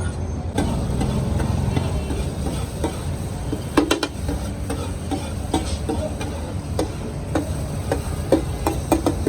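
Liver frying on a large tawa griddle, stirred with metal spatulas that scrape and clack against the pan at irregular moments over a steady low noise.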